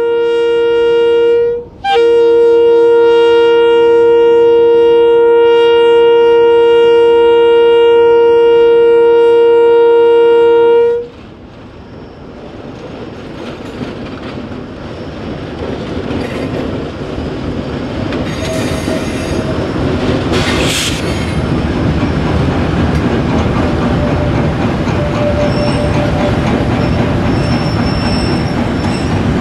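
Pair of GE diesel locomotives sounding a two-note air horn: a short blast, then a long blast of about nine seconds. After it, the diesels and the loaded phosphate hopper wagons are heard approaching and rolling past, their engine and wheel noise building steadily, with a few faint wheel squeals.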